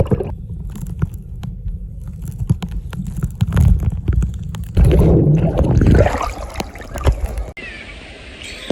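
Muffled underwater sound of sea water sloshing and rumbling around a phone sealed in a plastic waterproof pouch held under the surface, with a louder, fuller swirl about five seconds in. The sound changes abruptly to thinner and quieter about seven and a half seconds in.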